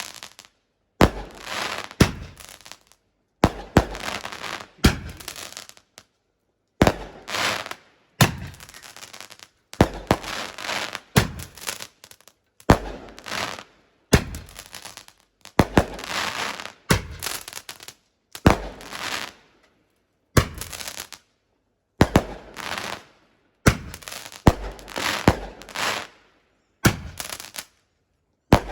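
Consumer fireworks going off: a long string of sharp bangs, roughly one a second, each followed by a short crackling, fizzing tail, broken by brief pauses.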